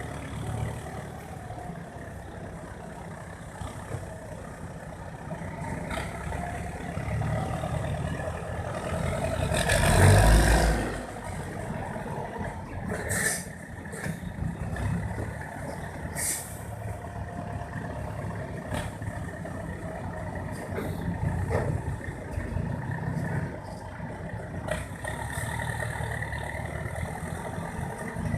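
Six-wheel dump truck's diesel engine running steadily, swelling loudly about a third of the way in. A few seconds later come short, sharp hisses of air.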